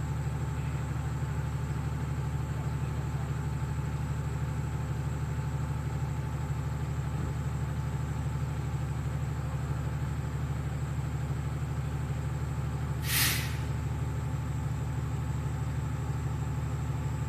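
A fire truck's diesel engine idling steadily with a low rumble, and one short air-brake hiss about 13 seconds in.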